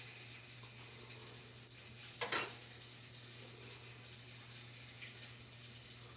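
Low, steady sizzle of sweet and sour sauce simmering in a pot on the stove, with one sharp clink of a spoon against the pot about two seconds in.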